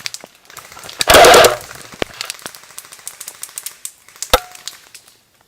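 An airsoft electric gun fires a short full-auto burst about a second in, a fast mechanical rattle. Scattered sharp clicks follow, with one louder crack near the end.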